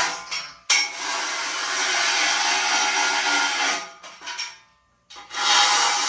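A power tool running in bursts. It breaks off briefly just after the start, runs again until about four seconds in, stops, and starts again about five seconds in.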